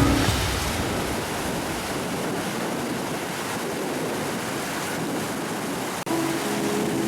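Ocean surf: a steady, continuous rush of breaking waves. About six seconds in the sound briefly drops out and music comes back in.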